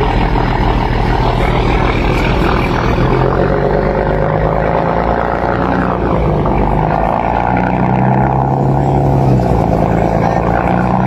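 Scania 550 heavy truck's diesel engine running under load, a loud continuous drone whose pitch shifts slightly up and down.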